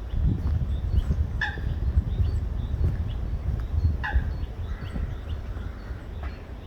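Low rumbling noise on the microphone outdoors, with two short animal calls that slide down in pitch, about a second and a half in and again about four seconds in.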